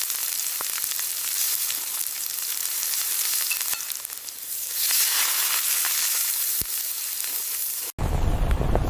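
Steady sizzling with fine crackles, like food frying in hot oil, swelling louder about five seconds in. Near the end it cuts out for an instant and gives way to a deeper, rumbling hiss.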